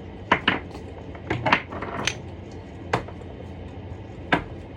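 Irregular sharp knocks of a kitchen knife and utensils against a chopping board and dishes while tomatoes are being diced, about seven knocks at uneven intervals.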